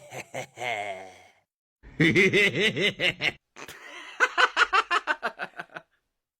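A person laughing in several bouts, ending in a quick run of breathy ha-ha pulses, then stopping.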